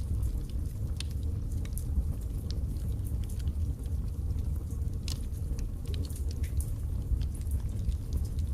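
Wood fire burning in a fireplace: a steady low rumble of flames with frequent sharp crackles and small pops at irregular moments.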